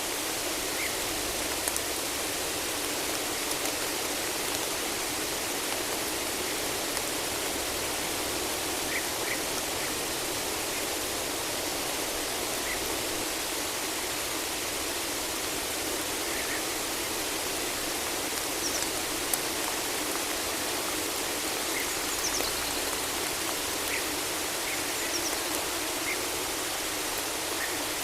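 Steady rain falling in a forest, an even dense hiss, with a few faint, short bird chirps scattered through it.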